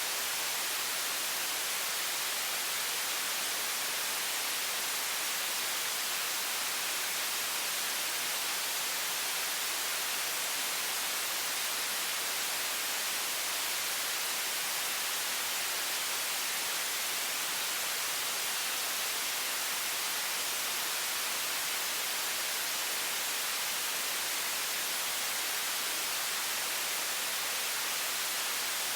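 A high-pressure stream of water running from a faucet as a steady, even hiss, strongest in the high pitches and unchanging throughout.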